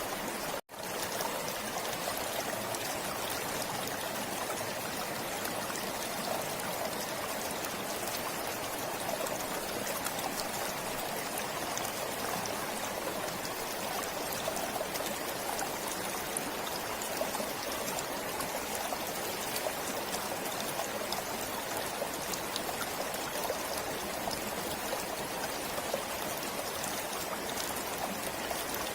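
Forest stream flowing steadily, water rushing and trickling over rocks, broken by a very brief dropout to silence about a second in.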